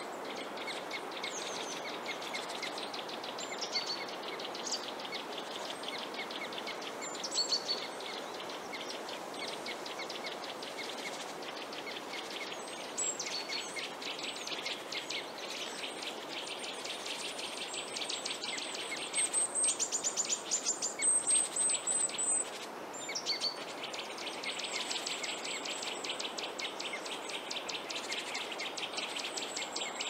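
Birds chirping and calling over a steady background hiss, with bursts of rapid high trills that are loudest about two-thirds of the way through.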